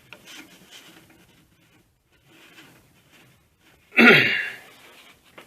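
A person sneezing once, loud and sudden, about four seconds in, after a few seconds of faint handling noise.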